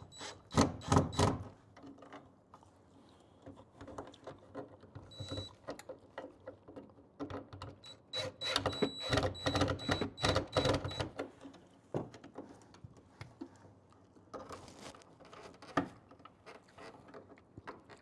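Irregular clicking and rattling of hand work on a plastic old-work electrical box, with a small motor giving a thin whine briefly about five seconds in and again from about eight to eleven seconds.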